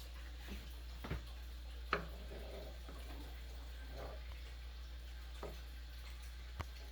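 Thick rice porridge bubbling in a pot: about half a dozen scattered soft pops and clicks, the sharpest a little under two seconds in, over a steady low hum.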